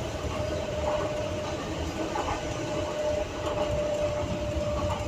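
Docklands Light Railway electric train running, heard from inside the car: a low rumble of wheels on track with a steady electric whine.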